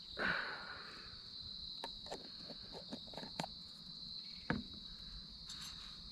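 Crickets chirring in a steady high drone, with scattered light clicks and knocks of handling: a brief rustle just after the start and a sharper knock about four and a half seconds in.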